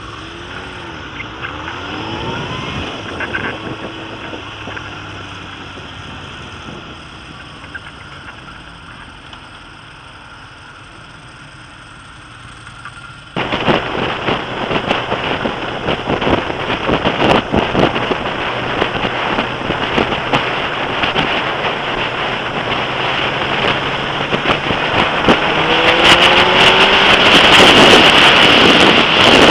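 Suzuki Gixxer sportbike engine rising and falling in pitch as it rides, then about halfway through a sudden loud rush of wind buffeting the camera microphone as the bike picks up speed, the engine revving higher near the end.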